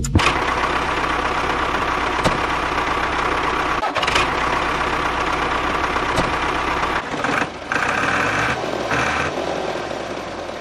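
A small engine running steadily, with a brief drop in level about seven and a half seconds in.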